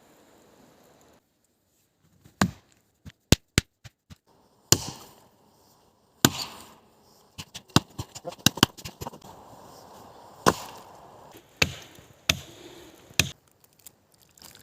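Wood being chopped with an axe: a dozen or so sharp, irregularly spaced blows, with a couple of quick runs of lighter strikes in between.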